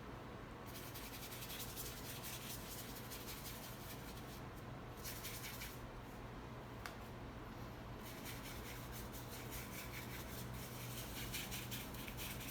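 Paintbrush rubbing white paint onto the painting surface in quick, scratchy strokes, with a pause of a few seconds in the middle, over a faint steady low hum.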